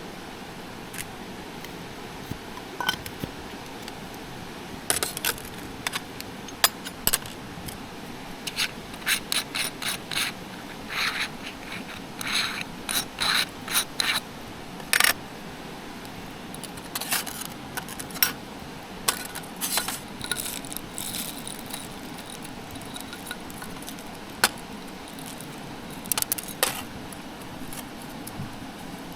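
Irregular light metallic clinks, taps and scrapes, like camp gear being handled, over a steady background hiss. The clicks come thickest in the middle stretch and thin out toward the end.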